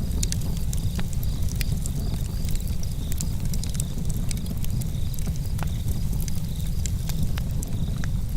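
Campfire burning: a steady low rumble under frequent sharp crackles and pops from the burning wood, coming at irregular moments.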